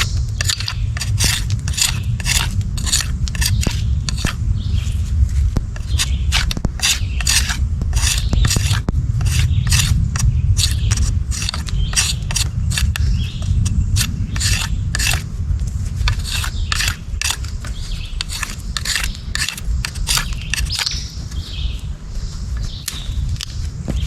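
Knife whittling a green stick: repeated quick scraping strokes, about two or three a second, over a steady low rumble.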